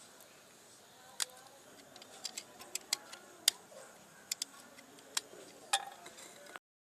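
About ten sharp, irregular clicks and taps of small hard parts being handled, the loudest about halfway through, over a faint steady background hiss.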